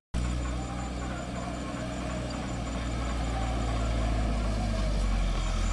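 Tractor diesel engine running steadily at low revs, growing slightly louder toward the end.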